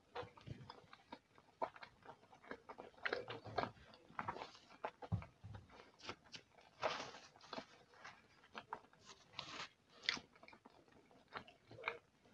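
Close-miked chewing of a sushi roll, with many short, irregular wet clicks and smacks.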